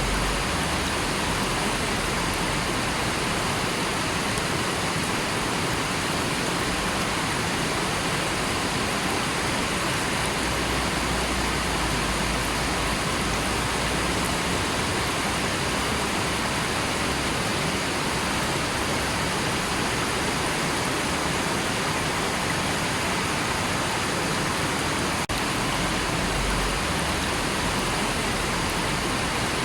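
River water flowing and rushing steadily, an even hiss of water with no change in level.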